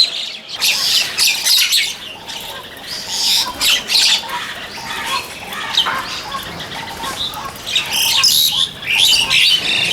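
A mixed flock of feeding birds, mostly mynas, calling and squawking over one another in a steady, dense chatter of short, shrill calls.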